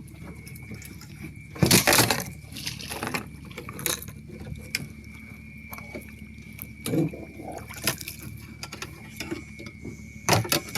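Water splashing and sloshing around a canoe, with knocks and bumps from someone shifting about in it; the loudest splash comes about two seconds in, with more bumps near the end. A steady high tone runs underneath.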